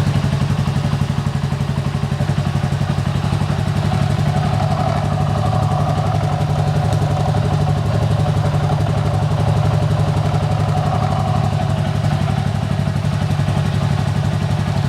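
Honda FTR223's single-cylinder four-stroke engine running steadily at idle through an aftermarket custom muffler, a fast, even exhaust pulse with no revving.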